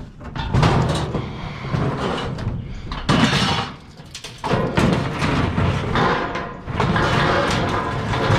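Scrap metal scraping and clanking in several loud stretches as a piece is shoved into a tight spot in the load.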